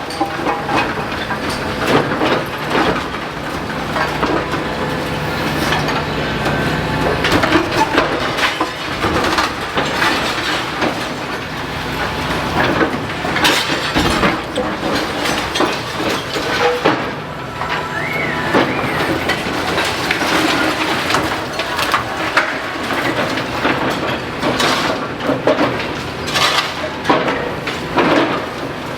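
Excavator demolishing a building: a steady engine hum under continual crunching, cracking and clattering of breaking and falling debris.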